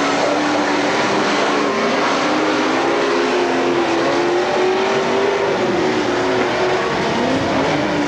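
Several dirt-track race car engines running hard together, their pitches rising and falling as the cars pass around the track.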